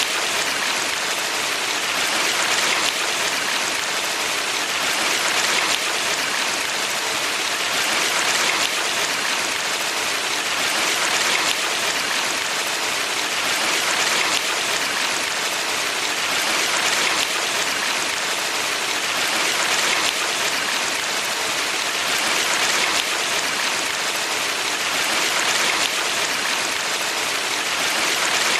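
Valley stream water flowing in a steady rush, swelling slightly every few seconds.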